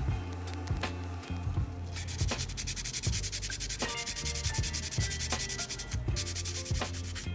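Sandpaper rubbed back and forth in quick repeated strokes, sanding by hand, with background music underneath.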